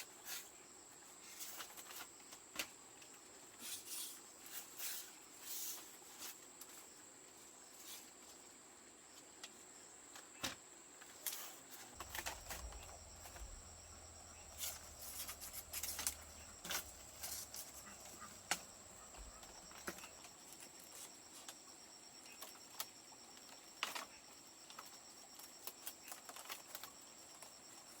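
Steady high-pitched insect drone, with scattered light clicks and knocks throughout and a low hum for several seconds midway.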